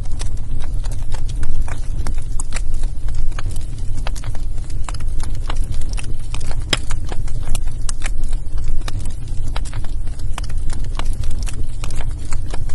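Wood fire burning in a fireplace: a steady low rumble of flames with irregular crackles and pops, one sharper pop about seven seconds in.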